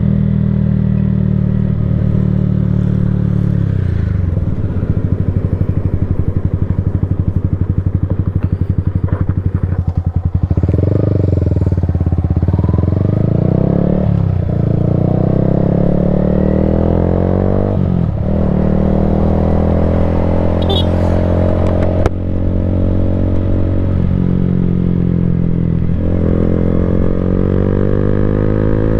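Yamaha Sniper 155R's single-cylinder engine through an Akrapovic full-system exhaust, ridden on the road. It settles back in pitch early on, then accelerates hard from about ten seconds in. It rises through the gears with quick, clean breaks in the note every four seconds or so, the cuts of quick-shifter upshifts.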